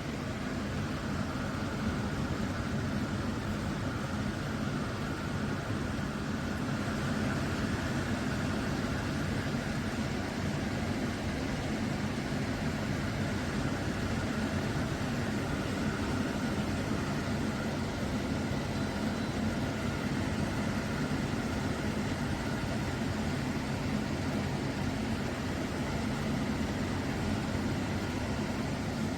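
Meaco MeacoCool Pro Series 12,000 portable air conditioner running: a steady rush of fan air over a low hum.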